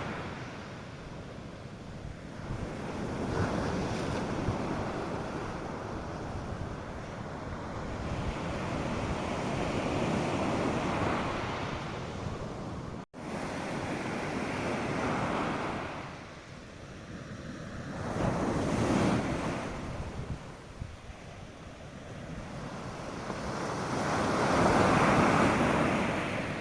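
North Sea surf on a sandy beach, waves breaking and washing in and out, swelling and ebbing every few seconds, with light wind on the microphone. The sound drops out for an instant about halfway through.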